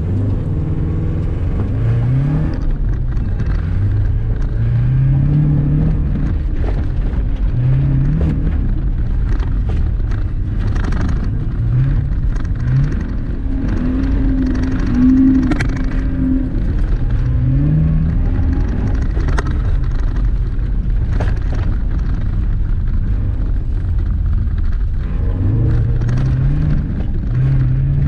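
Subaru BRZ's flat-four boxer engine heard from inside the cabin, driven hard on loose dirt and grass. It revs up again and again in rising sweeps and backs off between them, over a steady rumble of tyre and road noise with scattered sharp ticks.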